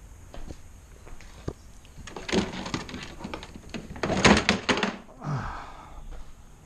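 Clattering plastic knocks and clicks of car interior trim being worked loose by hand, in two bursts about two and four seconds in, the second the louder.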